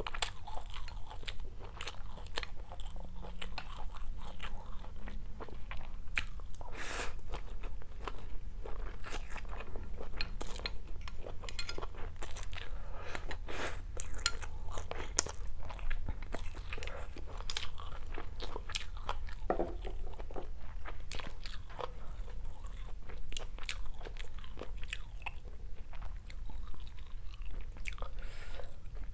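Close-miked mouth sounds of a person eating stir-fried rice vermicelli and fried tofu: chewing and biting, with many short wet clicks and crunches scattered through, over a faint steady low hum.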